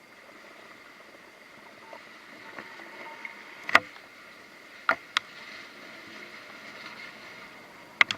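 Water sounds at a boat landing over a faint steady hum, broken by sharp knocks: one about four seconds in, two in quick succession a second later, and a pair near the end.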